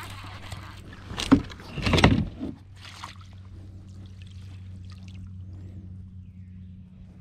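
Kayak on the water: a sharp loud knock about a second in, then a louder clatter lasting about half a second, over a steady low hum.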